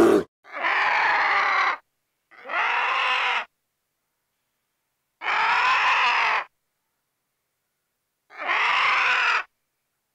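Four harsh, raspy animal calls, each about a second long, separated by silent gaps, following the end of a deeper roar at the very start.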